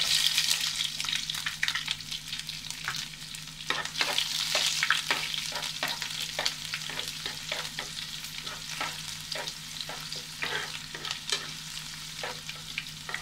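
Sliced shallots and curry leaves sizzling in hot coconut oil, loudest just as they go in, while a wooden spatula stirs them with repeated scraping and tapping strokes against the pan.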